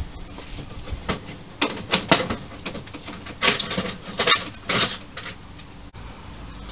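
Small metal tools, most likely Whitworth sockets, clinking and clattering as they are rummaged through and handled. The clatters come in irregular bursts and are busiest in the middle.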